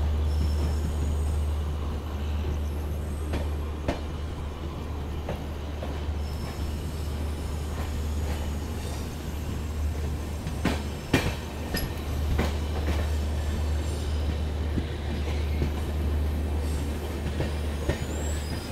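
Passenger train pulling out of a station. Its wheels run along the track with a steady low rumble and irregular clicks and knocks over rail joints and points, a cluster of louder ones about eleven seconds in.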